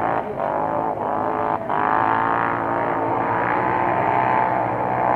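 Engines of off-road racing vehicles, quad bikes or buggies, revving on the track. Their pitch rises and falls as the throttle is worked, with brief drops twice in the first two seconds.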